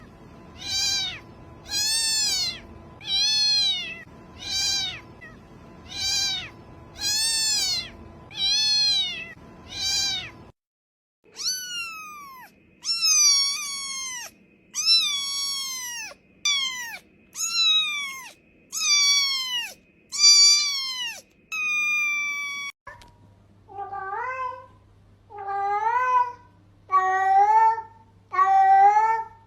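Domestic cat meowing over and over, about one meow a second, in three runs. First come meows that rise and fall in pitch, then higher meows that fall, and about two-thirds of the way in, lower meows that rise in pitch over a steady low hum.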